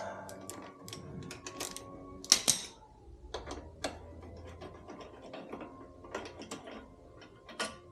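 Ratchet wrench on an extension with a Torx T45 bit, clicking in short irregular runs as a crash-bar bolt is driven, with one louder metallic clack a little over two seconds in.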